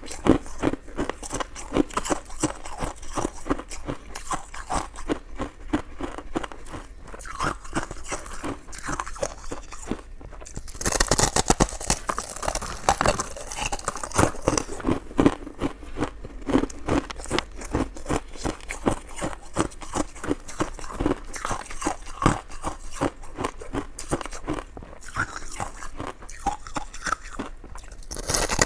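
Close-miked eating sounds: chewing, biting and wet mouth smacks as coconut-coated sticky rice cake is eaten, many small irregular clicks, with a louder stretch of about three seconds around eleven seconds in.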